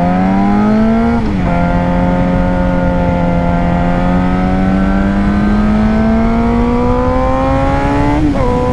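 Suzuki GSX-R 600 inline-four sport bike engine pulling away under throttle. It shifts up about a second in, then holds a slowly rising pitch as it builds speed, and shifts up again near the end. Wind rumble on the onboard microphone runs underneath.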